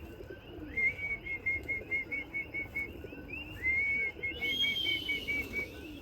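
Runs of short, clear whistled notes, about five a second, each run opening with a rising note, over faint pigeon cooing.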